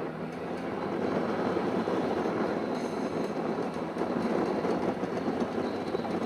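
Motorcycle under way, its engine and road noise a dense steady rumble that builds over the first second.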